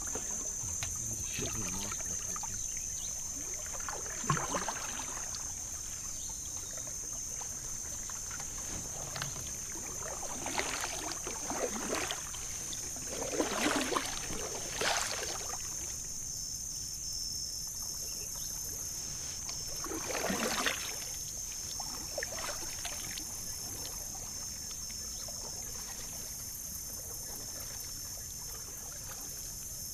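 Water splashing and sloshing around a kayak moving along a shallow creek, in a handful of irregular splashes, loudest between about 10 and 15 seconds in and again around 20 seconds. Under it, insects buzz steadily at a high pitch.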